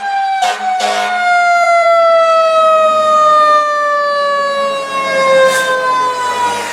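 Fire engine siren with one pitch sliding slowly and steadily downward as it winds down. Two short, sharp bursts of noise come about half a second and a second in.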